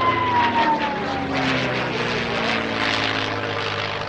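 A propeller-driven piston-engine aircraft flying past: its engine and propeller drone falls in pitch over the first second or two as it passes, then carries on steadily.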